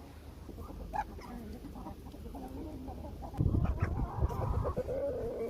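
Chickens clucking in a series of short calls, with a longer drawn-out call near the end. A louder low rumbling noise comes in just past halfway.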